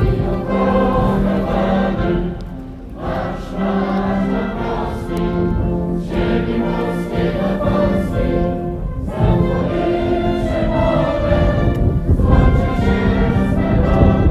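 Many voices singing together as a choir, with instrumental accompaniment, in long sustained phrases separated by short breaths.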